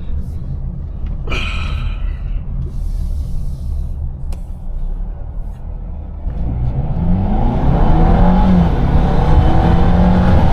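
Twin-charged Mercedes engine running low and steady, then from about six seconds in revving up under hard full-throttle acceleration. Its pitch climbs, drops briefly at a gearshift and climbs again as the car pulls.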